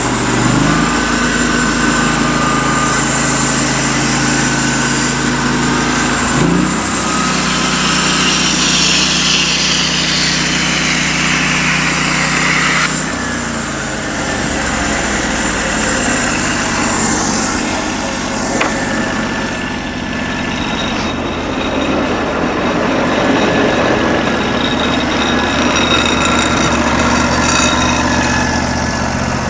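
Norwood LM29 portable band sawmill running, its 16 hp gas engine at speed while the band blade cuts through a log. The engine note shifts about six seconds in and drops back about thirteen seconds in, and the higher hiss of the cut falls away at the same point.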